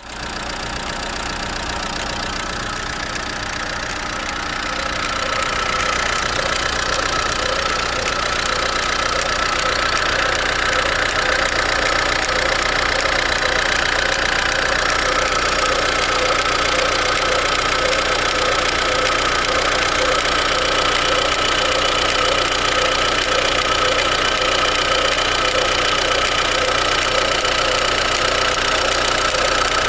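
Ford Mondeo Mk4 1.8 TDCi four-cylinder diesel engine running, with a steady high-pitched tone over the engine's rhythmic note: the odd noise the owner has not identified. It gets louder about five seconds in.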